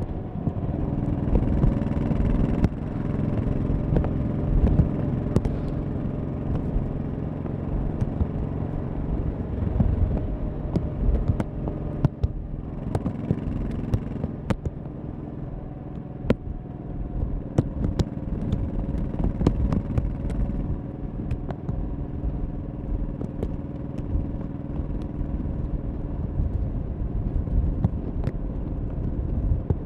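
1100cc V-twin motorcycle engine running under way, louder in the first few seconds, easing briefly about twelve seconds in, then running steadily. There are occasional sharp ticks.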